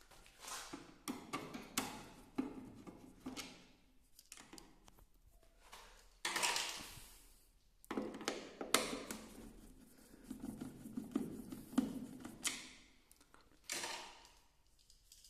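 Irregular knocks, clicks and short scraping sounds of parts and tools being handled during repair work, with no steady rhythm.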